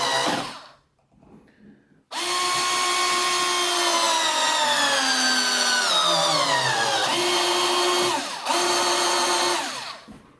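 Power drill driving a screw into a wooden bench leg: a short run at the start, then after a pause a long run whose whine drops in pitch as the motor slows under load, holds steady, cuts out briefly and runs again before stopping near the end.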